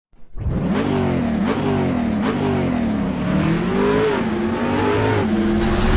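Kawasaki ZX-10R superbike's inline-four engine revving, its pitch repeatedly rising and falling. A few sharp cracks come in the first couple of seconds.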